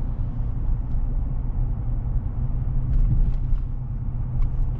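Chevy Silverado's V8 running, heard from inside the cab as a steady low rumble.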